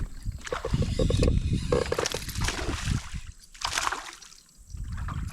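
Water splashing and sloshing beside a fishing boat, with a couple of louder splashes a few seconds in over a steady low rumble.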